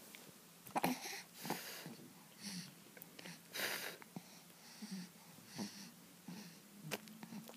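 An animal's breathing: a series of short, irregular breathy puffs with a few clicks in between.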